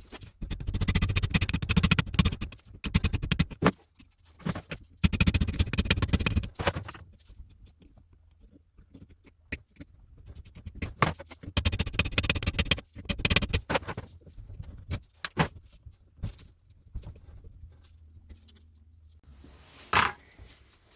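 Metal parts of an old hand-cranked drill press being worked on during strip-down: repeated bursts of scraping and rattling, separated by scattered clicks and knocks, with one louder knock near the end.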